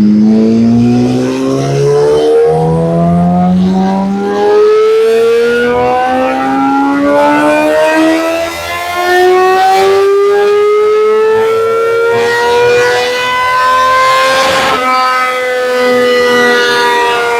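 2013 Yamaha R6's 599 cc inline-four, breathing through a full Arrow exhaust, pulling hard on a chassis dyno: the engine note climbs steadily in pitch for about fifteen seconds towards the top of the rev range. Near the end there is a sharp crack, then the pitch falls as the throttle closes.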